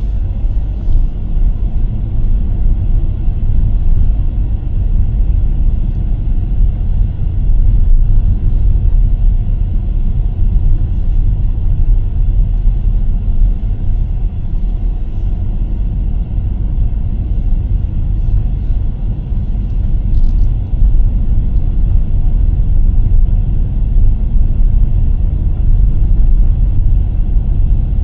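A car driving, recorded by a camera mounted on it: a steady low rumble of road and engine noise that rises and falls a little in loudness.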